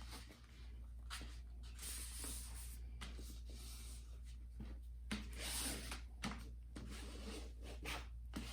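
Poster board being folded over and its crease rubbed flat by hand: faint rubbing and rustling with small ticks. There are louder scraping swishes about two seconds in and again around five to six seconds in.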